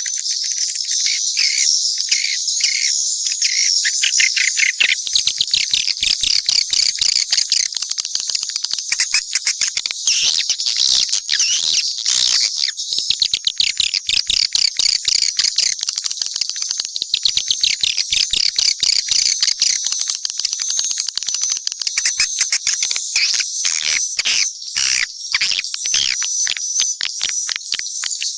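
Mixed swiftlet calls, a dense, continuous high-pitched twittering with rapid clicking trills: a swiftlet call recording (suara panggil) of the kind played to draw swiftlets into nesting houses.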